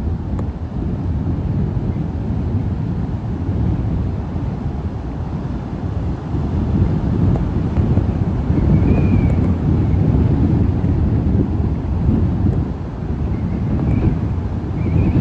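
Tropical-storm wind buffeting the microphone in a loud, surging rumble, with surf mixed in. A few short high chirps sound about halfway through and near the end.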